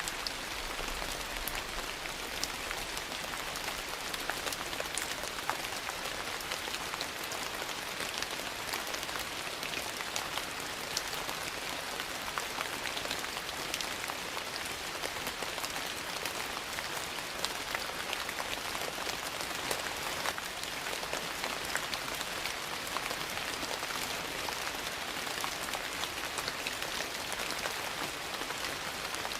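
Steady rain falling, with scattered short, sharp crackles from a wood fire burning in a fireplace.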